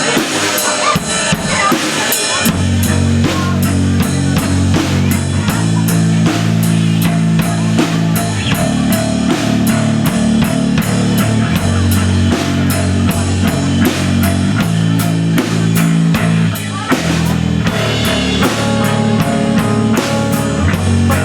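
Live rock band playing a song: the drum kit starts it alone, and the bass and guitar come in about two and a half seconds in over a steady beat.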